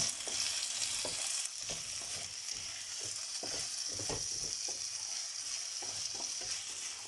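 Chopped vegetables sizzling in oil in a pan for a paella base, with a steady hiss, while a utensil stirs and scrapes the pan in short irregular strokes about twice a second.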